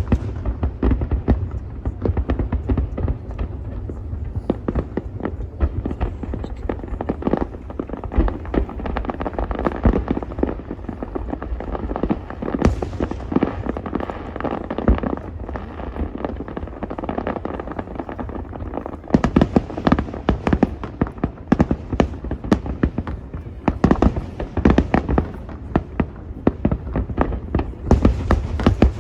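Aerial fireworks display: a dense, unbroken stream of crackling and bangs from many shells over a continuous low rumble, with heavier volleys about two-thirds of the way through and again near the end.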